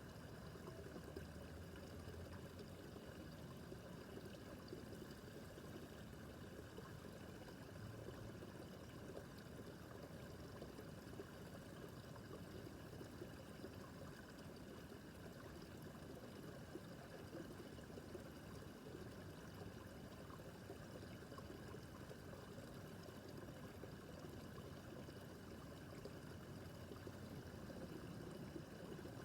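Small brook babbling: a faint, steady rush of flowing water.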